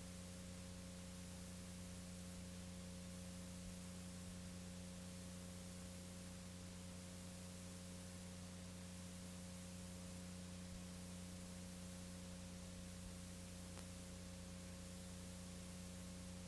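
Faint steady electrical hum with hiss, the recording's own noise floor with nothing else happening.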